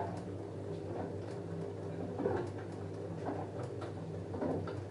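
LG F10A8HDS5 front-loading washing machine in its wash phase: a steady motor hum as the drum turns the load of jeans, with soft sloshing and tumbling swells about once a second.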